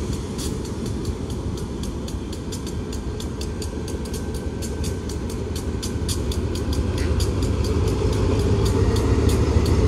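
Train noise: a steady low rumble with frequent sharp clicks, growing louder near the end.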